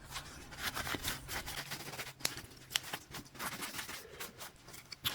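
Irregular small clicks and scrapes of metal engine parts, such as pistons, being handled and turned over on a workbench.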